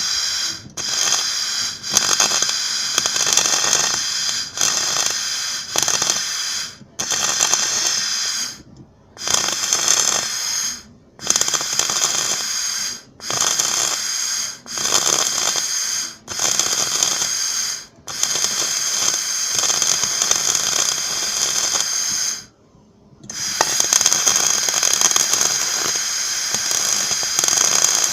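Electric arc welding, running the full weld seam over a repair after tacking. The arc crackles and sizzles in short runs of one to two seconds with brief silent breaks between them, then in two longer runs in the second half, with a single short pause between those two.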